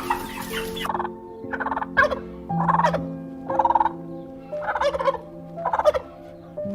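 A bird giving a series of short calls, about one a second, each a quick run of pulses, over background music with long held notes.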